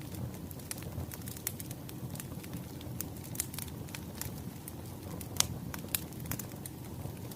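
Wood fire burning: steady crackling with frequent sharp pops of burning logs over a low, even rumble, and one louder pop about five seconds in.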